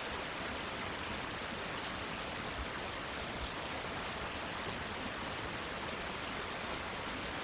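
Steady rain falling on plants and foliage, an even hiss with faint scattered drop ticks.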